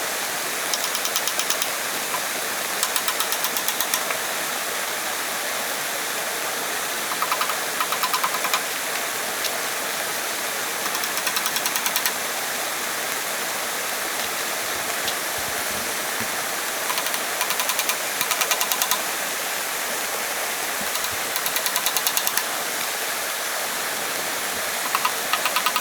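Steady rush of flowing stream water, with short bursts of rapid high-pitched ticking every few seconds.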